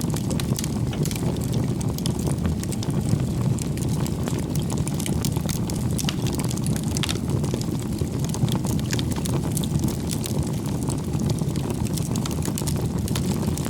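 Wood campfire burning: a steady low rumble of flames with many small, irregular crackles and pops of the burning firewood.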